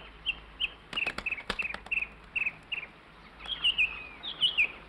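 Small songbird chirping: a quick series of short high chirps about three a second, with a few sharp clicks about a second in, then louder warbled notes sliding downward near the end.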